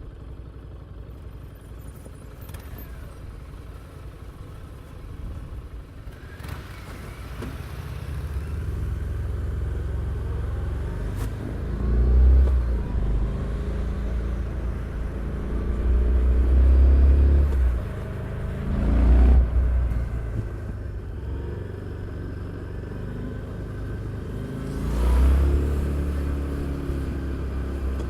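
Harley-Davidson Street 750's liquid-cooled V-twin engine and exhaust running under way on the road. It runs low and even at first, then pulls hard several times with the pitch rising, loudest a little before halfway and again near the end.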